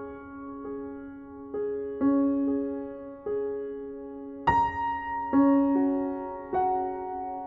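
Background music: slow, gentle piano notes and chords, each struck and left to fade, with a louder, brighter chord about four and a half seconds in.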